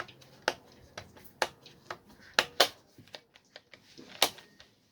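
Large angle grinder's trigger switch clicking sharply as it is pressed and released again and again, about eight irregular clicks, with no motor running. The switch is being tested after a fix for sticking, and it still catches now and then.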